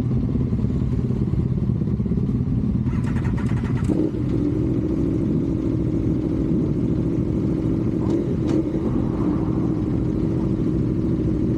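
Yamaha R25's 250 cc parallel-twin engine running steadily, its exhaust pulsing evenly, with a short clatter about three to four seconds in and a brief sharper noise around eight seconds.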